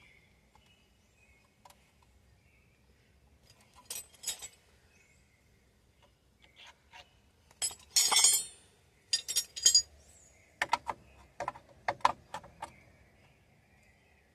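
Small metal parts clinking and knocking against each other, with a short grating scrape about eight seconds in and a quick run of sharp clicks after it, as a brake wheel cylinder is handled and fitted on a drum brake.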